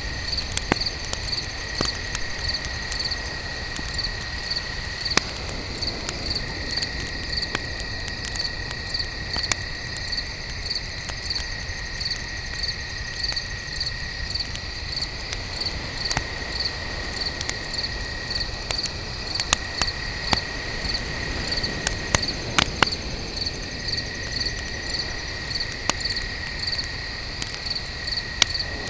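Crickets chirping in an even, pulsing rhythm over a second steady insect trill. A wood campfire crackles beneath them with scattered sharp pops.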